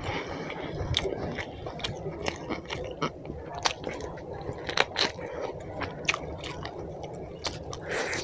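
Close-up sounds of a person eating chicken curry and roti by hand: chewing with irregular wet smacks and clicks from the mouth.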